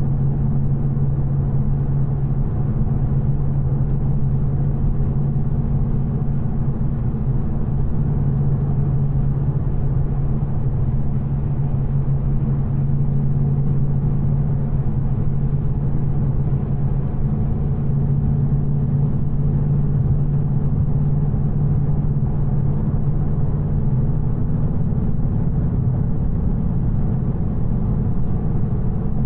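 2024 Ford Mustang GT's 5.0-litre Coyote V8, still on its factory exhaust manifolds, running at a steady cruise. It gives an even, unchanging low engine drone over a constant haze of road noise.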